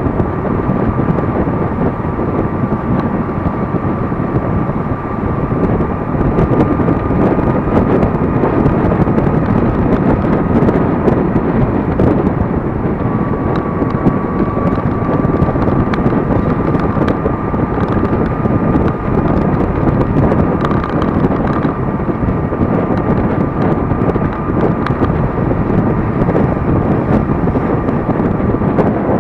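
Wind rushing over the microphone and road noise from a moving Gogoro 2 electric scooter, with a thin steady whine above it that drops out briefly about twelve seconds in.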